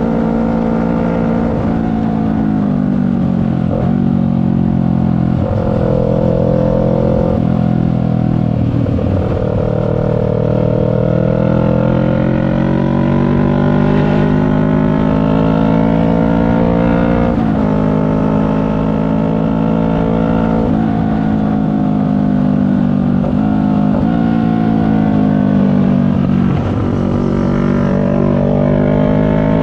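CFMoto 400NK's parallel-twin engine running under way. Its pitch climbs and then drops sharply at each of several gear changes, and eases off in between.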